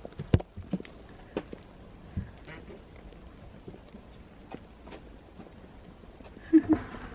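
Scattered soft knocks and taps, with two short low clucks from a hen about six and a half seconds in.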